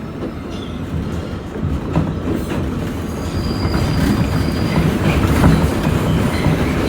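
New York City subway train running on the track: a steady rumble that grows louder, with scattered clicks from the wheels over rail joints. About three seconds in, a thin high wheel squeal lasts under two seconds.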